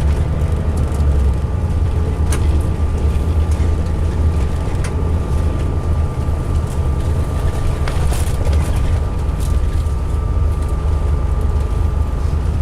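2005 MCI D4500 coach's diesel engine running with a steady low drone, a thin high whine over it and a few faint clicks; the uploader hears this coach as running rough.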